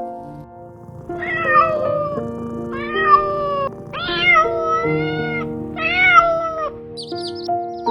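A cat meowing four times in drawn-out calls over background piano music.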